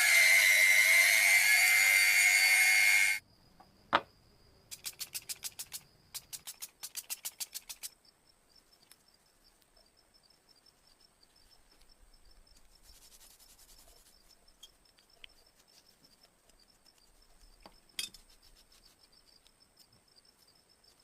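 Workshop tool noise while repairing a model gun: a loud grinding or sanding run with a wavering whine that cuts off suddenly after about three seconds, then a sharp knock. Next come two runs of rapid, even scraping ticks at about ten a second, then quiet handling with a few small clicks.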